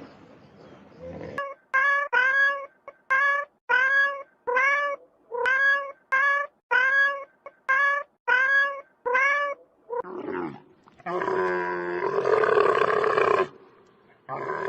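A cat meowing over and over: about a dozen short meows, each rising then falling in pitch, in quick pairs. Near the end comes a longer, rough, growling call.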